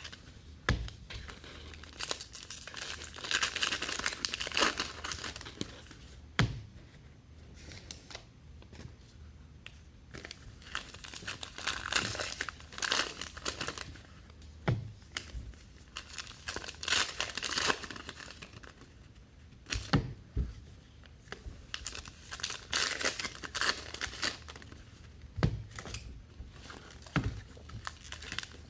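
Trading-card pack wrappers being torn open and crinkled, in several rustling bursts a few seconds apart, with a few sharp knocks on the table in between.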